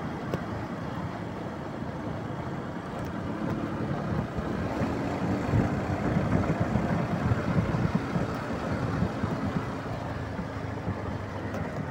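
Bajaj Platino 110 motorcycle's single-cylinder four-stroke engine running as the bike is ridden, growing louder for several seconds in the middle and easing back near the end.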